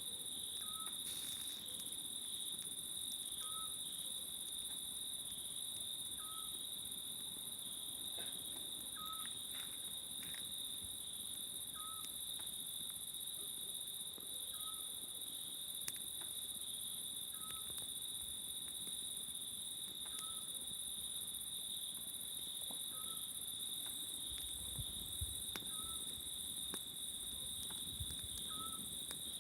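Steady chorus of crickets and cicadas trilling, with a small owl giving a short whistled note about every three seconds and occasional faint crackles from a wood campfire.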